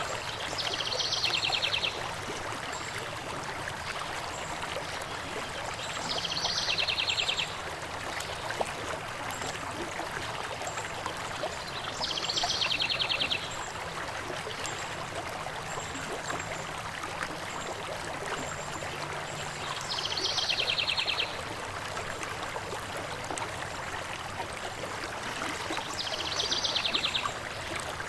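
Steady rush of flowing river water, with a bird singing a short, fast trill five times.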